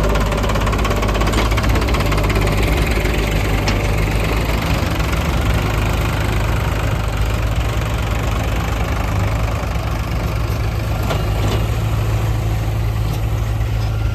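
Heavy diesel engine running steadily with a deep, even hum. A few faint short clicks come through about four seconds in and again near the end.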